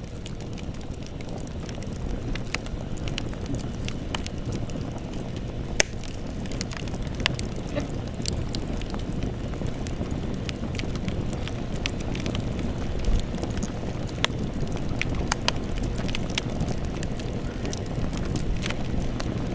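Campfire burning: irregular crackles and sharp pops over a steady low rumble of flame, with one louder pop about six seconds in and another about thirteen seconds in.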